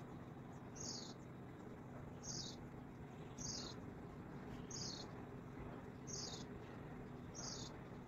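A bird repeating one short, high call that falls in pitch, six times at an even pace of about one every second and a quarter, over a faint steady hum.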